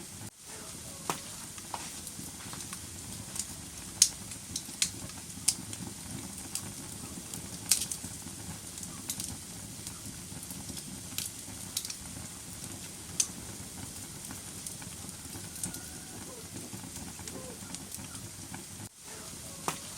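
Wood fire burning in a fireplace, crackling with a steady low rumble and irregular sharp pops. The loudest pops come about four and about eight seconds in.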